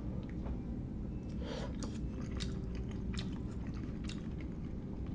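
Close-miked chewing of instant hot pot food (noodles, sausage, vegetables), with small wet mouth clicks at irregular intervals.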